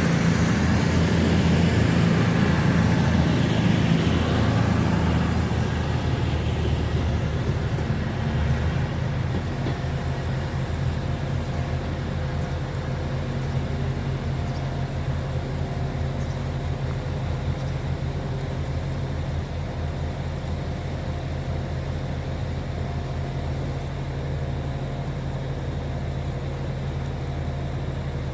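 Diesel train engine running with a steady deep hum that gradually gets quieter.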